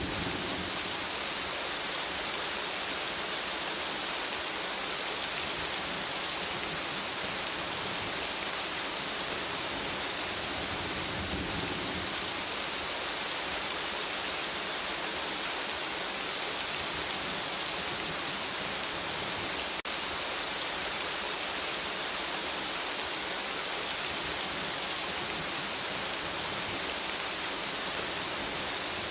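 Steady rain falling in a forest, an even hiss of many drops with no pauses.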